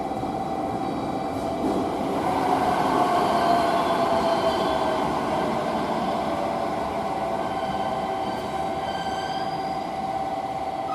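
Electric freight train running, with a steady hum and a louder stretch about two seconds in whose pitch slowly falls.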